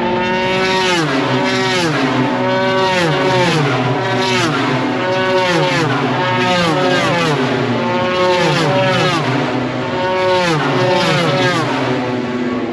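Racing motorcycles passing at speed one after another, each engine note dropping in pitch as the bike goes by, in a steady stream of about eight passes.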